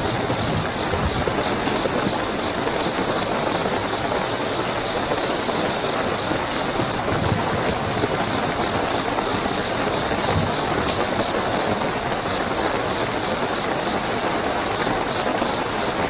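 Steady heavy rainfall with a chorus of crickets chirping continuously in high, unbroken tones above it.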